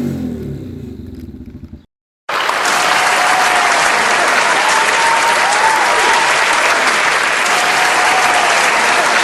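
A motorcycle engine's note dies away over the first two seconds and cuts off. After a brief gap, steady crowd applause with a few whistles starts and keeps going.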